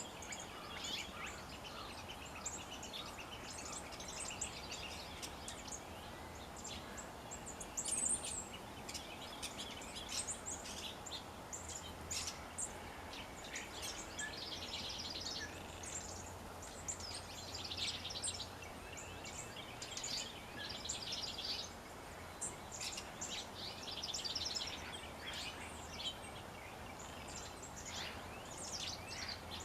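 Birds chirping and calling throughout, many short high notes with several buzzy trills scattered through, over steady background noise.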